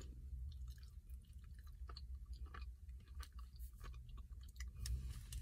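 Faint chewing: a person chewing a chocolate bar, with small irregular wet mouth clicks over a low steady hum.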